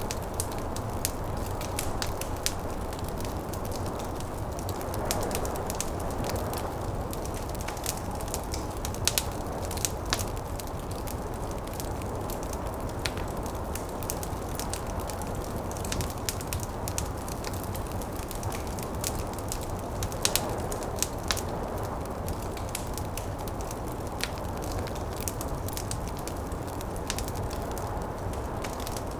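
Wood fire crackling in a fireplace: a steady stream of sharp snaps and pops, a few louder ones, over a constant low rushing of wind from a snowstorm.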